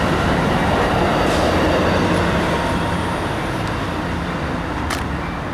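Amtrak Pacific Surfliner passenger train rolling into the station: a steady rumble of wheels on rail over the low drone of its diesel locomotive, easing off slowly as the train comes in. A single sharp click sounds near the end.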